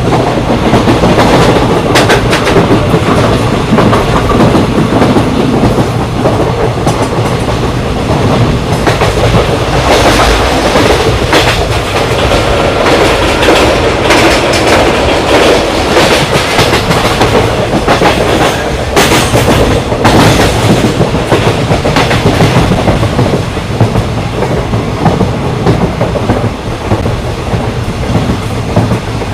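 Patna Kota Express passenger train running at speed, a steady loud rumble with repeated wheel clacks over rail joints.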